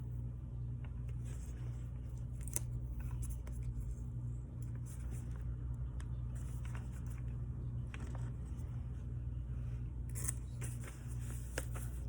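Light handling noises from paper planner crafting: short crinkles and small clicks scattered over a steady low hum. A few sharper clicks come about two and a half seconds in and again near the end.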